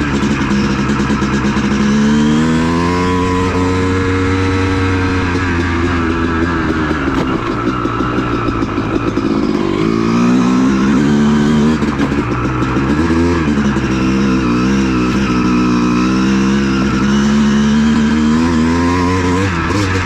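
Honda CR250 two-stroke dirt bike engine under way. It revs up and down, its pitch climbing and dropping every few seconds as the throttle is worked.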